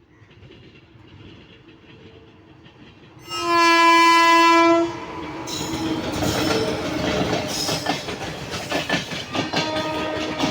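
An Indian Railways train approaches and sounds one steady horn blast of about a second and a half, a little over three seconds in. The horn cuts off sharply, and the train then runs past, its wheels clattering rhythmically over the rail joints.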